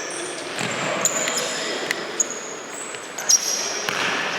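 Indoor futsal play: sneakers squeak in short high chirps on the court floor, and the ball is kicked with several sharp knocks, the loudest about three seconds in, echoing in the sports hall.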